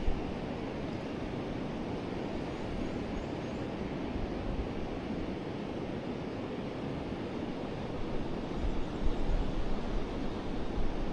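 Forest river flowing, a steady even rush of water. Wind buffets the microphone in low gusts, briefly at the start and again from about eight to ten seconds in.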